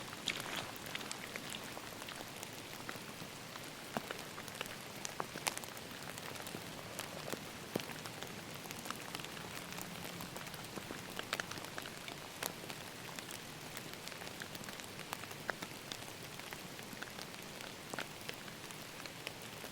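Steady rain falling in a forest: an even hiss of rain with many individual drops tapping sharply here and there.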